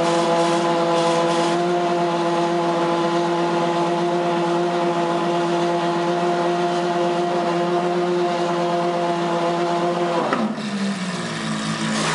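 Ferrari FXX's V12 engine running at a steady raised idle while still cold from start-up, then the revs fall abruptly about ten seconds in and it settles to a lower, even idle.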